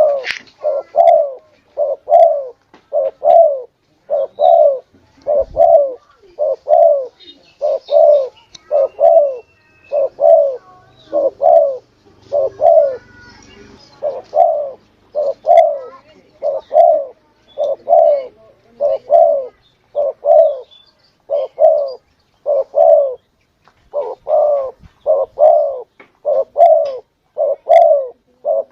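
Spotted dove (tekukur) cooing over and over, short rounded coos about one every two-thirds of a second, with a brief pause around the middle.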